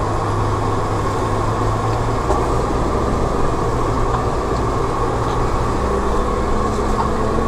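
Tractor engine running steadily, a constant low hum with no change in speed.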